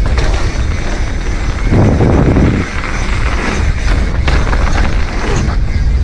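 Mountain bike riding down a dirt trail: wind buffeting the action camera's microphone in a heavy, gusty rumble, with the rattle and knocks of the bike over the ground.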